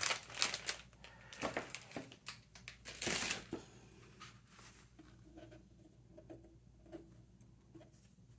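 Paper and cardstock being handled: rustling, sliding and light taps, with a louder rustle a little after three seconds, then only faint scattered handling sounds.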